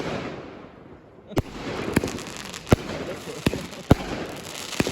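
Fireworks going off: after a quieter first second, a run of about six sharp bangs roughly a second apart, with crackling between them.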